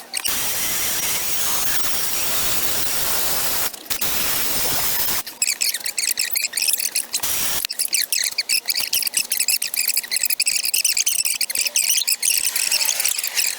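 Die grinder porting an aluminum intake manifold: a steady hissing run for about the first five seconds, broken once by a short pause, then a fast, choppy, high-pitched chatter as the cutter works the metal.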